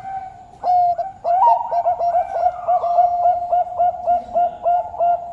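Bangkok turtledove cooing: a soft held note, then from about half a second in a rapid, even series of short clipped coos, about three to four a second.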